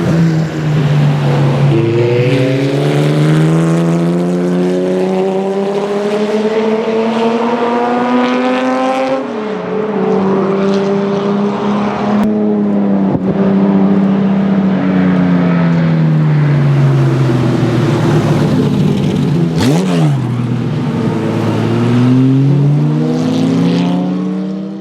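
BMW E9 3.0 CSL Group 2 race car's 3.2-litre straight-six at full throttle, loud: the pitch climbs steadily for about nine seconds, drops sharply as the driver lifts or shifts, holds, sinks slowly, then climbs again before the sound fades out at the end.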